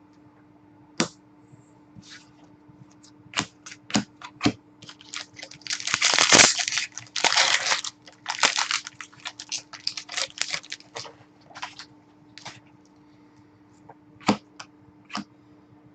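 Hockey trading cards and their packaging handled on a table: scattered sharp clicks and taps, with a couple of seconds of crinkly rustling in the middle.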